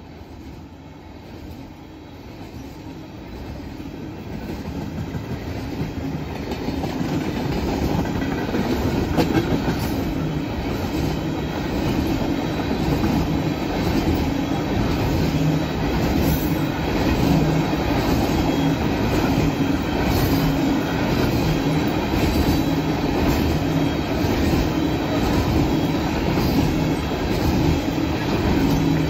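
Freight train of tank cars rolling past, wheels clicking over the rail joints in a running rhythm. It grows louder over the first several seconds, then holds steady.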